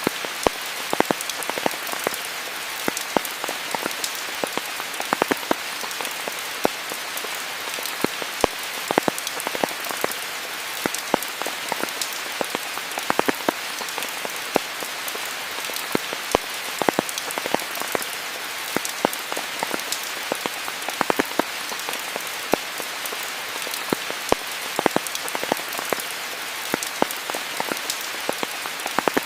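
Steady rain falling: a continuous hiss with many sharp, close drop impacts scattered irregularly throughout.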